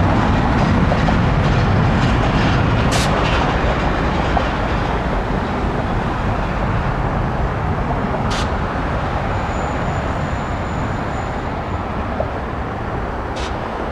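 Jet airliner engines, a steady broad rumble that slowly fades as the aircraft moves away. Three short sharp clicks come through it, about 3, 8 and 13 seconds in.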